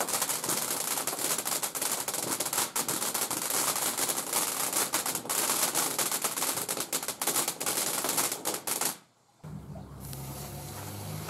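Firework crackling, a fast, dense run of small pops over a hiss, for about nine seconds before it stops abruptly.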